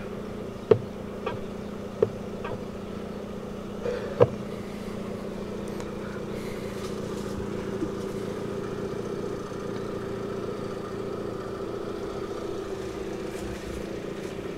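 The Lada Vesta's 1.6-litre 16-valve inline-four idling steadily, with a few sharp clicks in the first four seconds.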